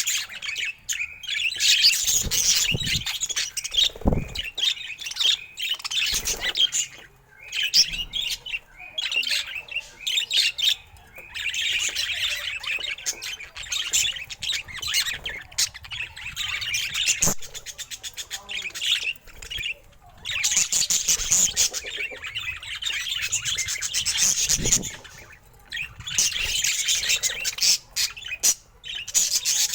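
Budgerigars chattering and chirping in quick runs of a few seconds broken by short pauses, with a few soft low thuds in between.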